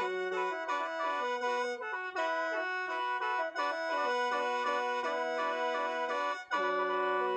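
Lao khaen, the bamboo free-reed mouth organ, played solo: a melody in chords of several reeds sounding together, at times over a low drone. About six and a half seconds in there is a short break, then a long held chord.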